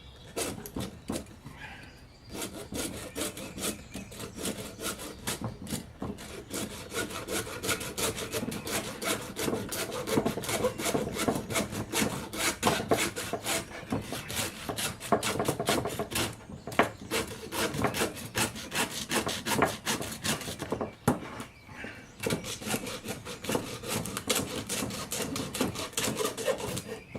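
Small hand hacksaw sawing through a turkey's leg to cut the spur off to length, in quick back-and-forth strokes with a few brief pauses.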